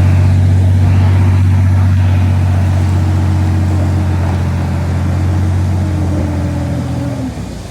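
Heavy diesel engine of earthmoving equipment running at a steady speed, a loud even hum that fades near the end.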